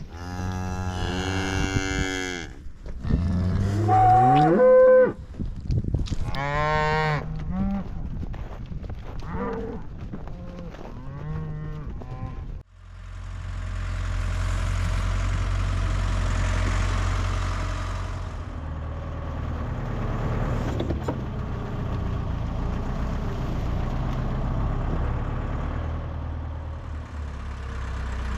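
Beef cattle mooing, several long calls one after another, some rising in pitch. About halfway through they cut off abruptly, giving way to a steady low rumble with a hiss over it.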